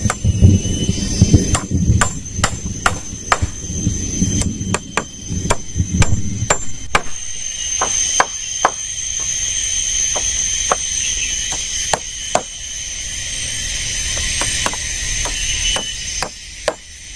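Sharp, irregular strikes of a tool on wood, as in chopping and hammering to build a shelter, heaviest in the first half alongside a low rumbling noise. A steady high-pitched insect drone runs underneath.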